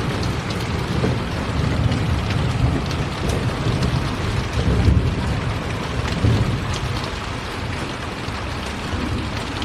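Steady heavy rain falling, with a low rumble of thunder swelling and fading beneath it, loudest about five seconds in.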